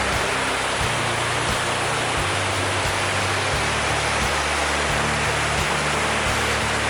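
Steady rushing of a waterfall, with background music's low bass notes changing underneath every second or so.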